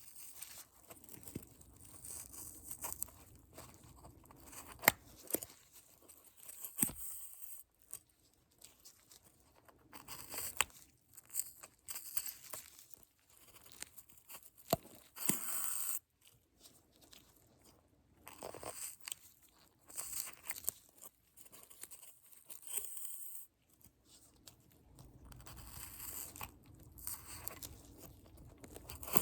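Close-up ASMR prop handling: irregular crinkling, tearing and crackling, with a few sharp clicks between stretches of near quiet.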